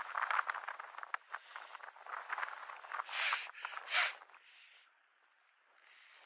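Footsteps crunching on a hiking trail, then two loud, short breaths close to the microphone, about three and four seconds in.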